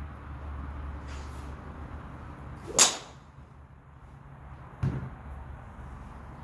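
Golf club swung through the air with one sharp whoosh about three seconds in, followed by a short knock near five seconds.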